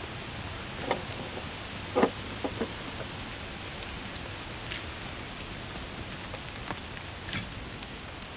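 Steady rain hiss with scattered louder drops or taps, the loudest about two seconds in.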